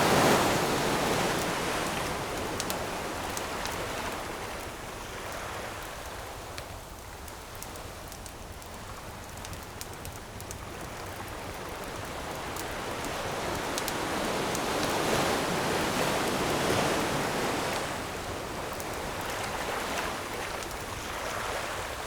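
Ocean waves washing onto the shore in slow swells: a surge at the start ebbs away, and another builds and breaks a little past the middle. Faint, scattered crackles from a wood campfire sit on top.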